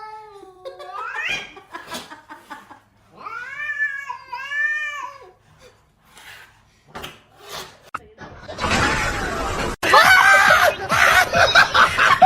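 A cat meowing: a short rising call at the start, then two long, drawn-out calls about three to five seconds in. From about eight seconds in, louder noisy sound with people laughing over it.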